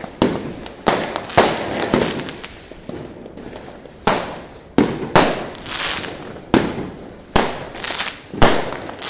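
New Year's Eve fireworks going off: about a dozen sharp bangs at irregular intervals, each trailing off quickly.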